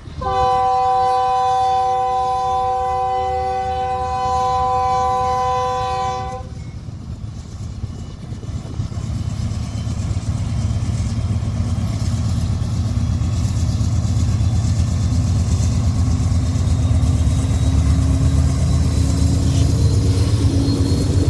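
Union Pacific locomotive's air horn sounds one long chord for about six seconds. Then the train rumbles by, the low rumble growing louder toward the end.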